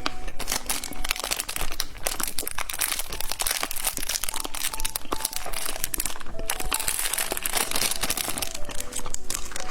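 Plastic candy packaging crinkling and crackling as it is handled, over light background music.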